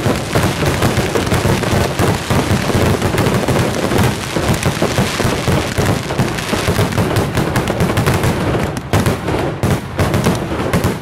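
Fireworks finale barrage: a dense, rapid run of firework bangs and bursts, thinning to separate bangs near the end.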